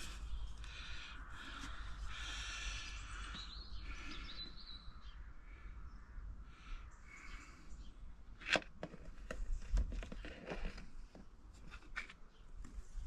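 Scraping and rubbing as a plastic drain fitting and pipe are shifted into place, then a few scattered clicks and one sharp knock.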